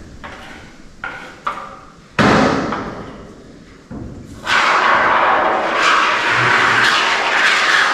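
Expanding spray foam being dispensed from a pressurised can into gaps along a wall's bottom plate: a short burst of spray about two seconds in that fades, then from about halfway a steady loud hiss.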